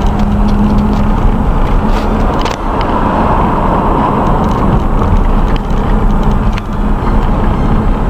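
Car driving, with steady road and engine noise heard from inside the cabin and a few faint clicks and rattles.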